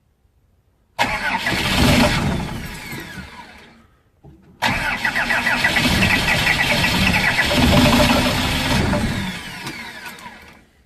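Diesel engines being cold-started, heard twice: the first starts abruptly about a second in and dies away within about three seconds. The second starts abruptly just before five seconds, runs steadily for several seconds and fades out near the end.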